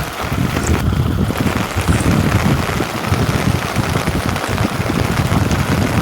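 Wind buffeting the microphone: a loud, gusty rumble that rises and falls, over a steady hiss.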